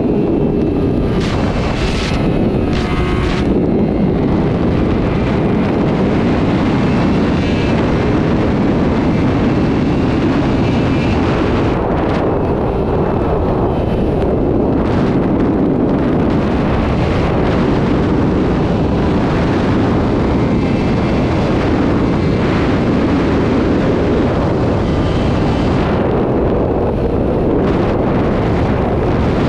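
Sport motorcycle riding at speed: the engine runs steadily under heavy wind rush on the microphone.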